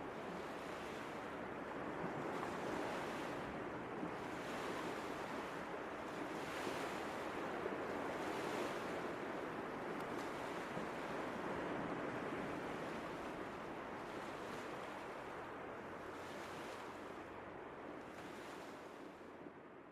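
Ocean surf washing on a shore, a steady rush that swells and eases, slowly fading out near the end.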